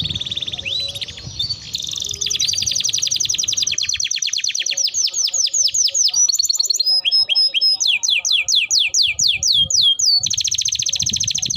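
Domestic canary singing a long, unbroken song of rapid trills, switching every second or two to a new rapidly repeated note, some sweeping up and some down. A low background rumble drops out about four seconds in and comes back near the end.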